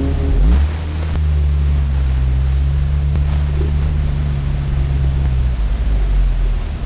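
Porsche 911 GT3 RS flat-six engine running at low revs, heard from inside the cabin as the car rolls slowly forward, with a short rise in revs about half a second in. The note steadies and thins out a little near the end.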